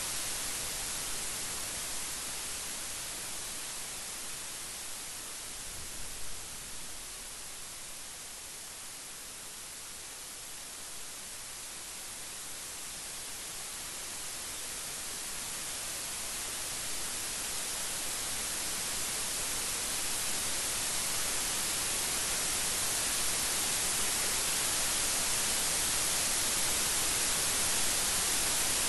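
Steady heavy rain, a dense hiss. It eases off about a third of the way through, then builds gradually louder again.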